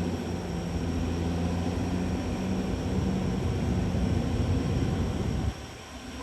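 Diesel engine of a CAT D6R XL crawler bulldozer running hard with a steady low hum and rumble. The sound drops off sharply about five and a half seconds in.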